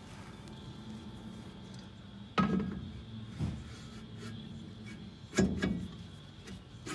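A few sharp metal knocks with brief ringing, about two and a half seconds in, once more a second later, and again near five and a half seconds: a brake drum being worked onto the hub over newly fitted brake shoes.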